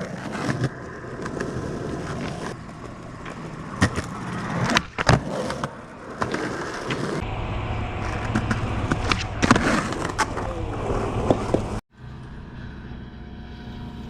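Skateboard wheels rolling over pavement with a steady rough noise, broken by several sharp clacks and knocks of the board. The sound cuts off abruptly near the end.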